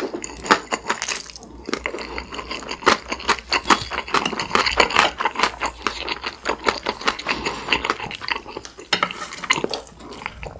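Close-miked wet chewing of a big mouthful of Chapagetti black-bean instant noodles, with many small smacking clicks.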